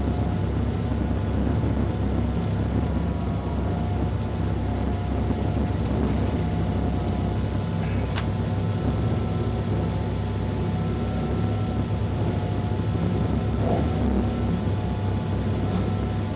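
Honda Civic's engine running at a steady speed, heard from inside the cabin as a low, even drone with no revving. A faint click comes about eight seconds in.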